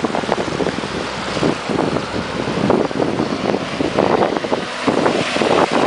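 4WD truck pushing through deep water, its engine running low under the rush and splash of water, with irregular surges of splashing and wind buffeting the microphone.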